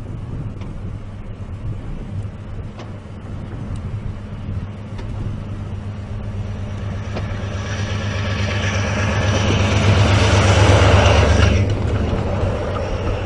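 Snow-clearing train on the rails: a steady low engine drone, with a rushing noise that builds over several seconds and cuts off sharply about eleven and a half seconds in.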